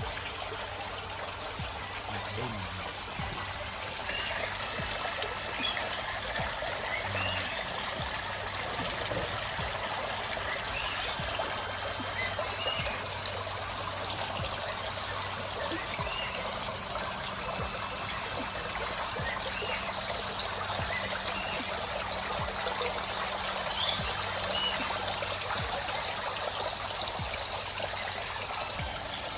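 Steady trickling, running water, with faint short chirps now and then.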